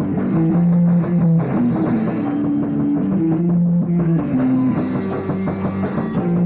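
Punk rock band playing live, an instrumental passage: a guitar and bass riff of held notes changing every half second or so, over drums.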